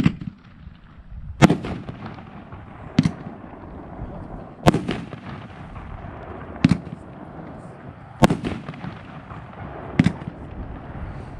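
Legend Fireworks '9 Bad Reasons' 500-gram nine-shot cake firing: a run of about seven loud, sharp reports, one every one and a half to two seconds, with a steady noise between them.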